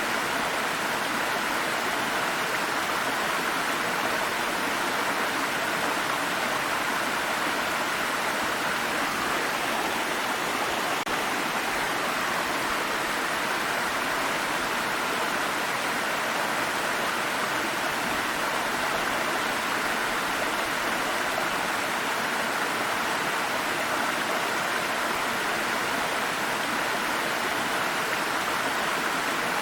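Water stream flowing over rocks: a steady, even rushing and babbling.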